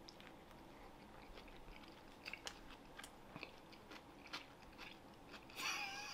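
A person chewing a mouthful of food, faint wet clicks and small crunches, with a brief hum-like voice sound near the end.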